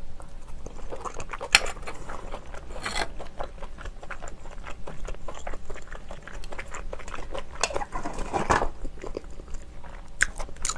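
Close-miked chewing of steamed shellfish meat, with many small wet clicks and a louder cluster of mouth sounds about eight and a half seconds in. A few sharp clicks come near the end.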